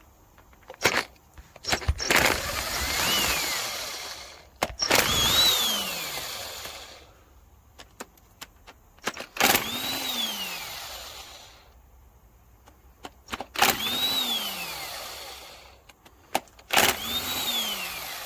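Power tool undoing the cam cap bolts on a BMW M57 diesel cylinder head, run five times in short bursts. Each burst is a whine that rises as the tool spins up and falls as it winds down, with sharp clicks of the tool meeting the bolts.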